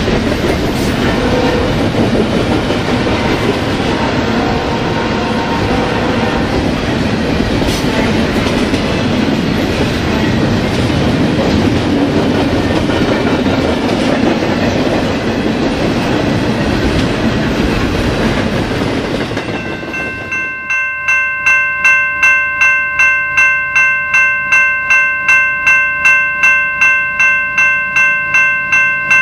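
A loaded BNSF double-stack intermodal train rolling past, a steady rumble and clatter of wheels on rail. About twenty seconds in, it cuts to a railroad grade-crossing bell ringing steadily, about three strikes a second.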